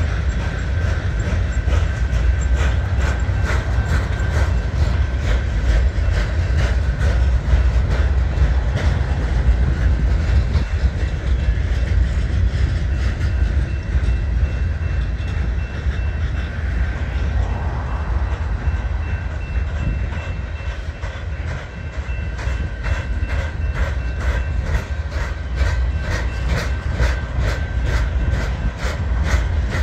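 Freight train cars rolling past close by: a steady low rumble with a regular clicking of wheels over rail joints, and a thin high steady ringing tone at times.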